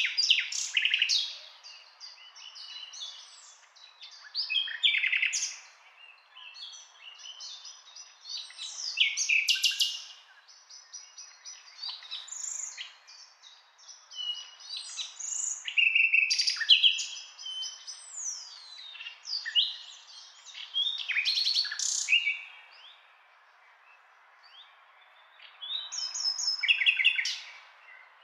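Songbirds singing: bursts of varied chirps, trills and sliding whistles every few seconds over a faint steady hiss, with a short lull before a last burst near the end.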